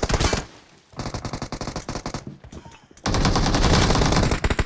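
Automatic gunfire in a team-based shooter video game: a rapid burst that stops half a second in, a quieter run of shots after a short pause, then a louder sustained burst from about three seconds in.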